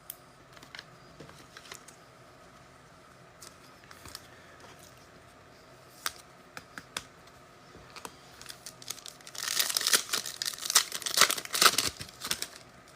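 A few faint clicks and taps of card handling, then about nine seconds in a loud few seconds of crinkling and tearing as a foil trading-card pack is ripped open.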